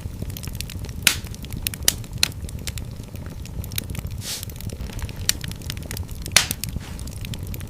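Wood fire in a fireplace crackling: a steady low rumble of flames with sharp pops scattered irregularly through it, the loudest about a second in and about six seconds in, and a brief hiss a little past halfway.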